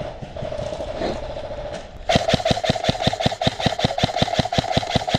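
Airsoft electric rifle firing a fast, even string of shots for about three seconds, starting about two seconds in, over a steady background hum.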